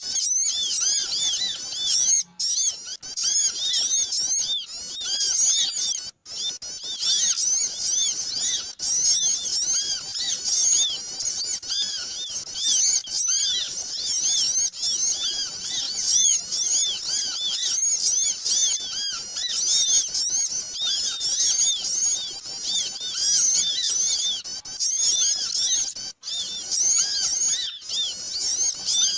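Dense chorus of many small songbirds chirping and twittering rapidly, high-pitched and unbroken apart from a few brief gaps: a bird-lure (pikat) recording of noisy small-bird calls, played to attract small birds.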